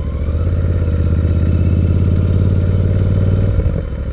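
Motorcycle engine pulling steadily under throttle, growing a little louder, then easing off about three and a half seconds in.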